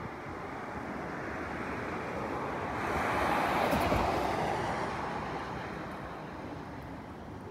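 Arriving airliner passing overhead on approach: a broad jet rumble that swells to its loudest about halfway through and then fades as it goes by.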